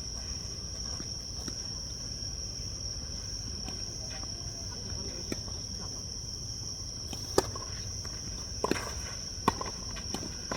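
Steady, high chirring of insects, with a few sharp tennis-ball strikes in the second half as a rally gets under way.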